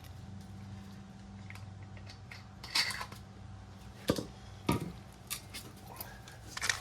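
Scattered metallic clicks and clinks of plumbing fittings and tools being handled while pipe connections are made up, over a steady low hum.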